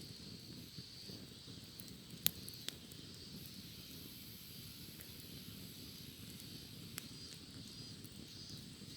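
Bonfire crackling, with three sharp pops: two about two seconds in and one near the end. Cicadas drone steadily behind it, and a higher buzz joins for a couple of seconds in the middle.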